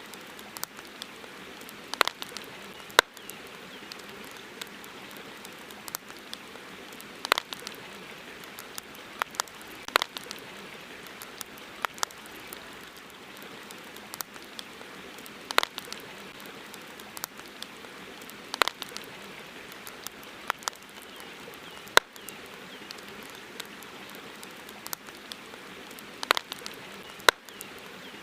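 Campfire crackling, with sharp pops every second or two and a few louder snaps, over a steady hiss of running river water.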